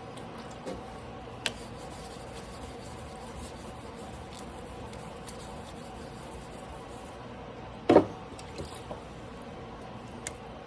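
Steady low hum with a few light clicks and one loud knock about eight seconds in.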